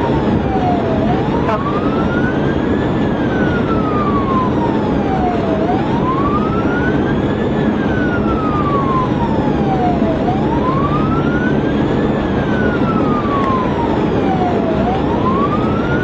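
Police cruiser siren in a slow wail, rising and falling about every four and a half seconds, over steady road and engine noise at highway speed.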